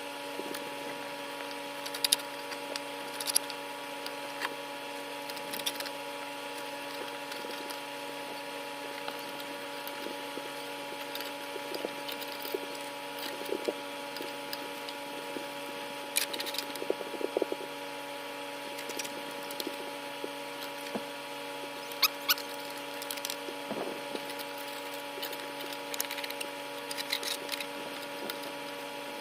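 Garden shovel scraping and knocking caked grass off the underside of a mower deck: irregular scrapes and sharp clicks, scattered through, over a steady hum.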